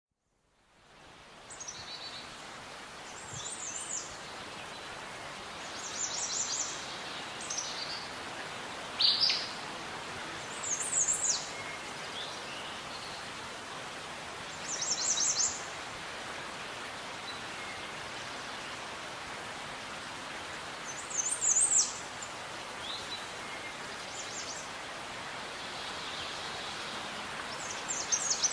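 Birds calling, with short high chirps and trills every few seconds over a steady background hiss that fades in at the start.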